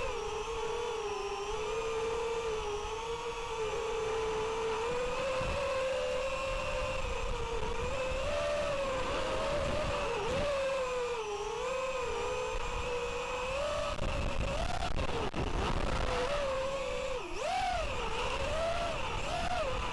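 FPV racing miniquad's brushless motors and propellers whining, the pitch rising and falling with throttle, with bigger swings in the last few seconds. Strong wind buffets the microphone underneath.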